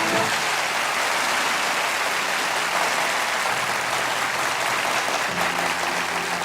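Concert audience applauding as the song's last chord cuts off. Near the end, the band softly starts playing again under the applause.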